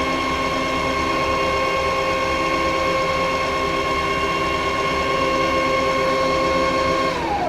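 Spindle of a Rottler F10XS CNC boring and surfacing machine running with a steady, high-pitched whine. Near the end its pitch falls and the sound dies away.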